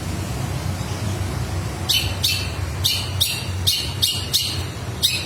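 Long-tailed shrike (cendet) giving a run of short, harsh, high chirps, two to three a second, starting about two seconds in. These are lovebird-like calls from its mimicked repertoire. A low steady hum runs underneath.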